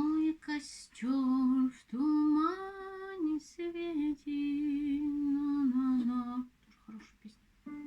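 A woman sings a slow folk melody on her own, with no instrument, in long held notes with small slides in pitch. The voice breaks off about six and a half seconds in.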